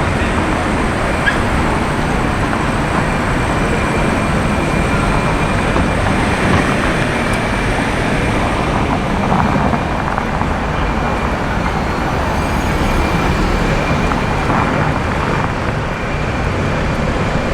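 Steady street traffic noise: a constant wash of passing cars with no single vehicle standing out.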